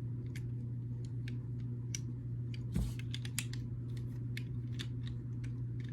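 Small plastic building bricks clicking and tapping as they are handled and pressed together, in irregular light clicks over a steady low hum.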